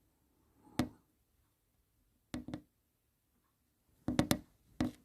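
A few sharp taps with quiet between them: one, then a quick pair, then a fast cluster of three or four and a last one near the end.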